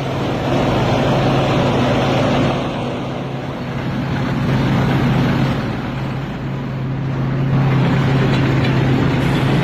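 Combine harvester's engine running steadily with a low hum, its level swelling and easing a few times.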